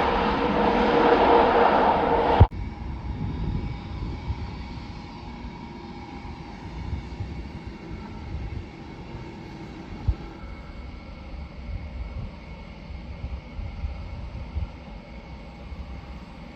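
Large military transport jet's engines running loud with a steady whine, cut off abruptly about two and a half seconds in. After that, a much quieter low rumble with wind buffeting the microphone and a faint distant hum.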